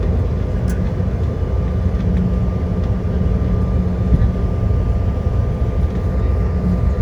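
Cabin noise of a jet airliner after landing: a steady low rumble with a faint, steady high whine running through it.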